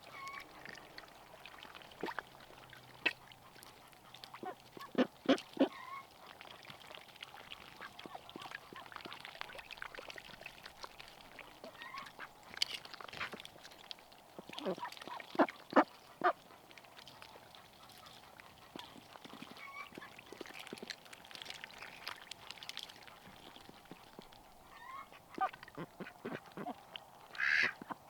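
Domestic ducks quacking in short, scattered calls, with a louder, busier run of quacks near the end.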